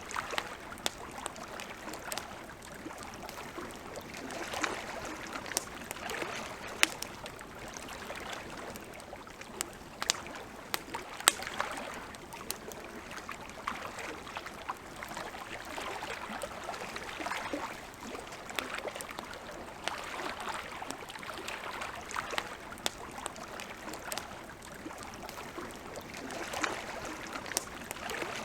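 Wood campfire crackling, with frequent sharp pops over a steady hiss, and lake water lapping softly underneath.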